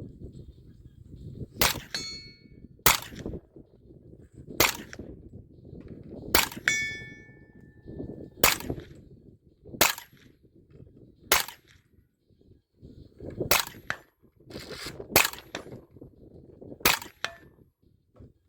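Arsenal SAM7SF 7.62x39 AK-pattern rifle firing about ten single shots, one every one and a half to two seconds. A couple of the shots are followed by a brief metallic ring.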